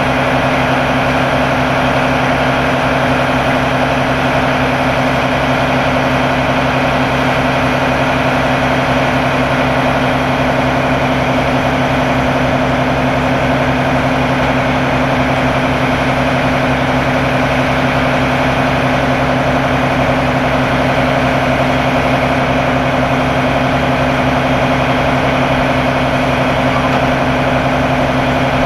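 Fire department ladder truck's engine running at a steady idle, an unchanging low drone throughout.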